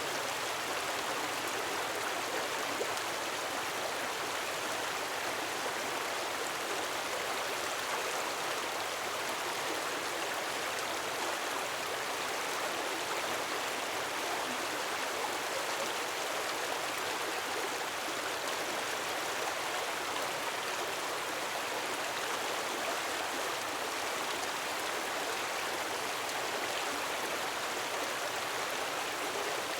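A gentle waterfall, water falling in a steady, even rush with no swell or break.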